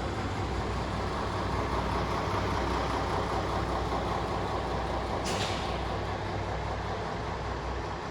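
A heavy vehicle's engine runs steadily with a low hum, and a short hiss of released air comes about five seconds in.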